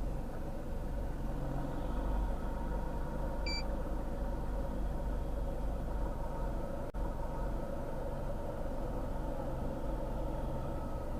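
Motor vehicle engine idling steadily with a low rumble. A short electronic beep sounds once, about three and a half seconds in.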